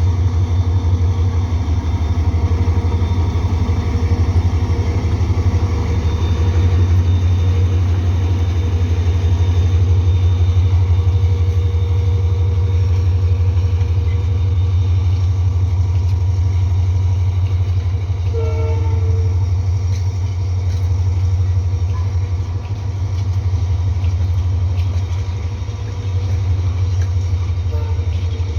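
Diesel-hauled passenger train running steadily, a loud continuous low rumble with faint steady tones above it; a brief higher tone sounds about eighteen seconds in.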